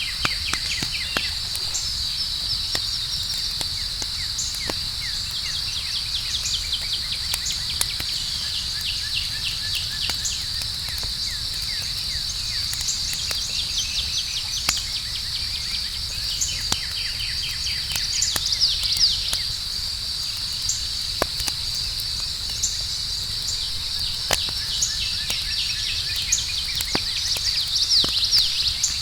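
Outdoor campfire crackling with sharp scattered pops, under a steady high insect trill like crickets, with bursts of chirping calls that come and go.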